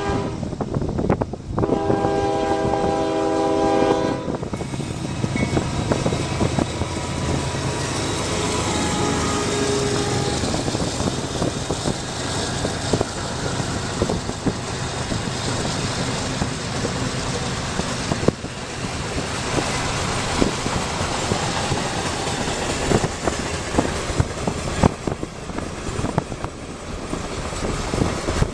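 CSX mixed freight train's locomotive horn sounding one blast of about two seconds, about two seconds in, over the steady rumble of the train rolling past, heard from a car pacing alongside.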